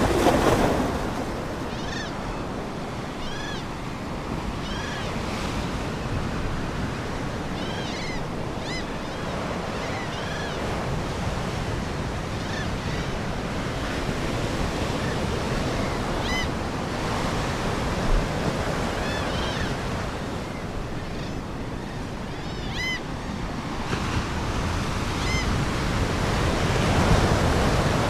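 Ocean waves washing in, swelling at the start and again near the end, with gulls giving short high cries now and then, sometimes several in quick succession.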